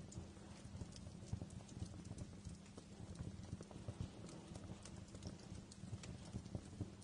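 Wood fire crackling in a fireplace: a steady low rumble with many small, irregular pops and snaps.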